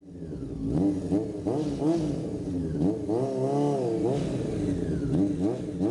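Motorcycle engine being revved in repeated throttle blips, its pitch rising steeply and dropping back several times.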